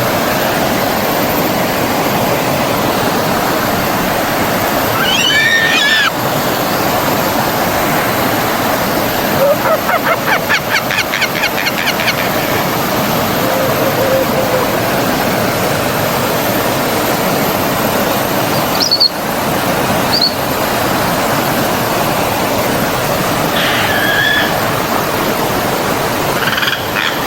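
Steady rushing of flowing stream water, with birds calling over it: a warbling call about five seconds in, a fast trill of repeated notes around ten seconds, two short high chirps around nineteen and twenty seconds, and more calls near the end.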